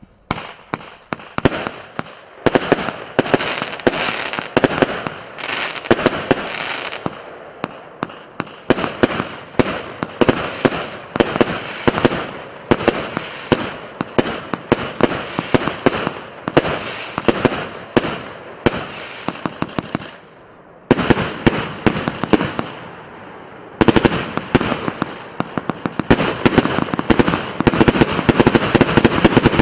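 Russian Fireworks РС906 "Russian Knights" multi-shot fireworks cake firing: a rapid, continuous string of shots and bursting shells. The firing eases off briefly twice about two-thirds of the way through, then picks up again and is heaviest near the end.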